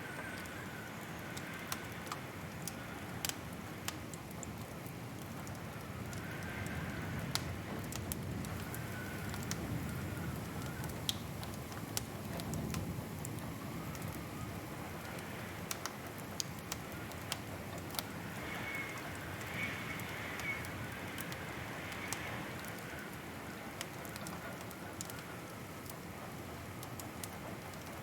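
Wood fire crackling: a steady low rush broken by sharp, irregular pops and snaps.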